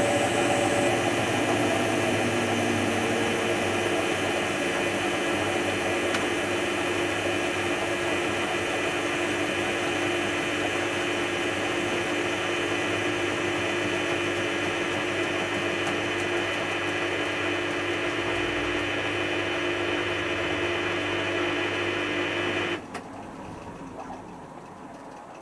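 Hotpoint HF8B593 washing machine spinning its drum at speed, a steady motor whine with several held tones. About 23 seconds in, the motor drive cuts off suddenly and the sound drops away as the drum coasts down at the end of the spin.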